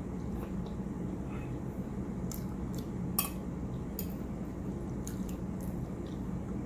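Scattered light clicks of cutlery against a plate or bowl while eating, with one sharper clink about three seconds in, over a steady low hum.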